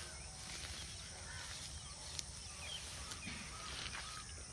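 Faint, scattered bird chirps over a low steady rumble, with a single click about two seconds in.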